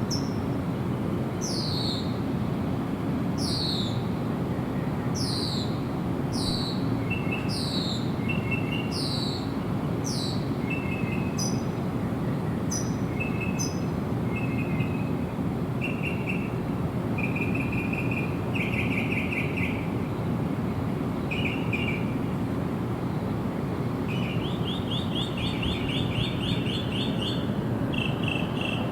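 Songbirds singing, at least two kinds, over a steady low rushing background. For the first ten seconds or so one bird repeats a high downslurred whistle about once a second, then switches to shorter high notes. A second bird gives short chirps and, later on, fast trills.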